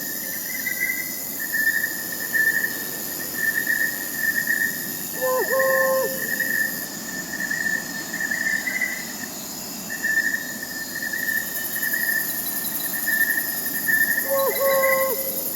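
Crickets chirping in a steady, pulsing chorus, with a high insect hiss above it. An owl hoots briefly twice: about five seconds in and again near the end.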